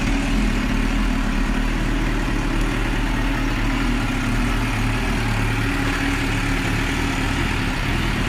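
2005 Suzuki GSX-R1000's inline-four engine, fitted with an aftermarket exhaust, idling steadily.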